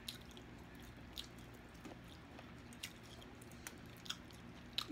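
Faint chewing of sticky barbecue-sauced ribs, with a handful of separate wet mouth smacks and clicks.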